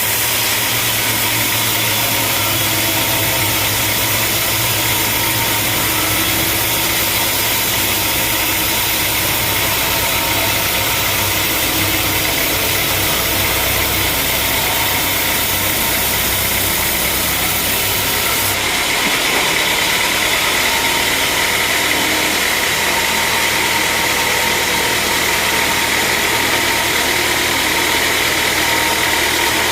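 Sawmill machinery running steadily with an engine-like drone and hiss; about two-thirds of the way through the low hum drops out and the sound shifts.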